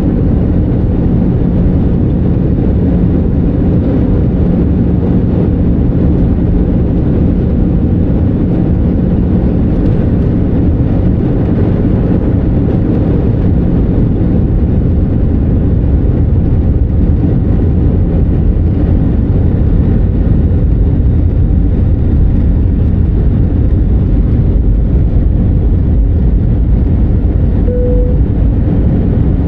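Steady engine and airflow noise inside the cabin of an Airbus A319, heavy in the low end. A low hum fades out about eight seconds in, and a short single tone sounds near the end.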